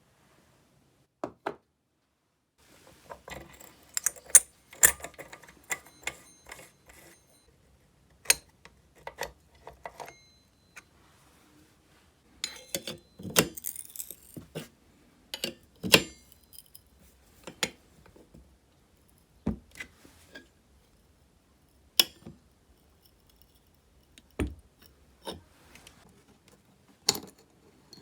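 Small metal parts and hand tools clinking and tapping as a chainsaw is reassembled by hand. The sound comes as single sharp clicks and brief rattles, with silence between them.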